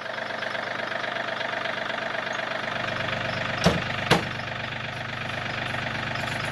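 John Deere 4210 compact tractor's three-cylinder Yanmar diesel idling steadily. Two sharp clicks about half a second apart come a little past halfway.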